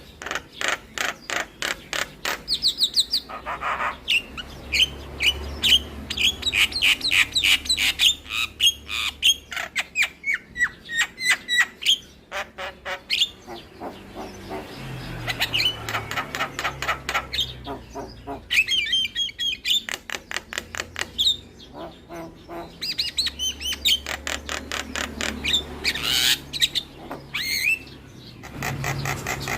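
Javan myna singing a busy, varied song: rapid runs of dry clicks and chatter mixed with short whistled and chirped notes.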